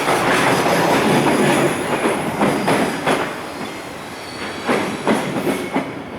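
Koki container wagons of a freight train rolling past slowly, their wheels clacking over rail joints. The rolling noise drops off about three seconds in, leaving a few separate clacks as the last wagons pass.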